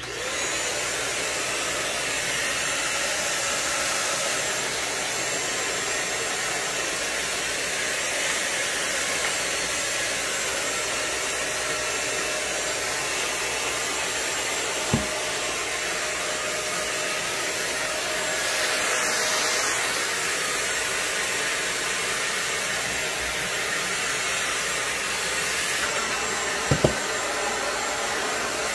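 Deerma handheld stick vacuum cleaner switched on and running steadily: a rush of air with a thin high whine. A brief knock comes about halfway through, and a quick double knock comes near the end.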